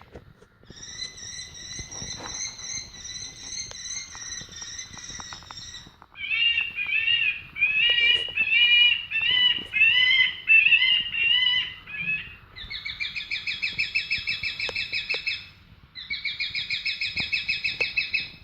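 Bird-scaring audio samples played through a drone's loudspeaker: first a pulsing warble of stacked tones, then about six seconds of repeated rising-and-falling chirps, then two runs of fast, evenly spaced pulses, each cutting off sharply.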